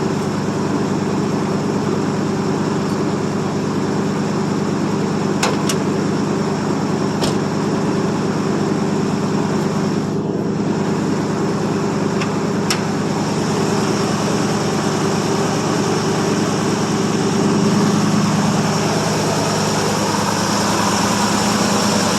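A 1979 Chevrolet C10 pickup's engine idling steadily through a glass-pack muffler a couple of minutes after a cold start. A few sharp clicks come over it about five, seven and twelve seconds in.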